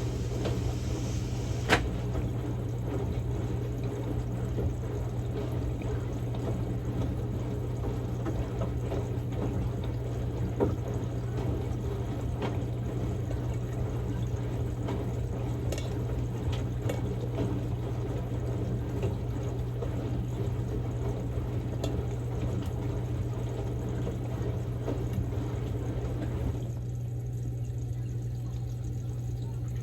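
Samsung Grande washing machine on its quick-wash cycle, water pouring into the tub over a steady low hum, with a few faint clicks. The higher splashing part of the water sound drops away near the end.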